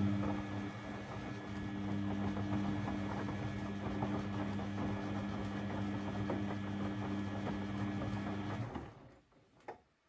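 Beko WMB 71643 PTE washing machine running a steady electrical hum with crackling, rushing noise over it, which cuts off about nine seconds in. A sharp click follows shortly after.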